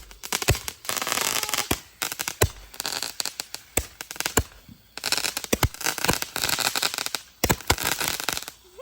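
Consumer fireworks going off: a rapid, irregular series of sharp pops and bangs with dense crackling between them.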